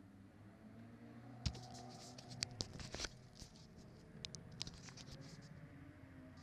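Scratching and sharp clicks of close handling, scattered irregularly from about a second and a half in, over a faint low hum.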